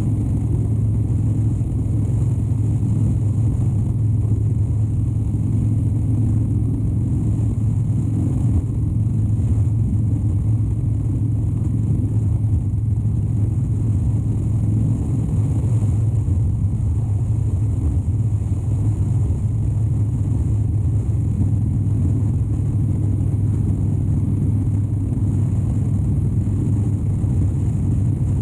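A 2013 Harley-Davidson Dyna Wide Glide's 103-cubic-inch V-twin running at a steady cruising speed, a deep even hum that holds its pitch throughout with no shifts or revving.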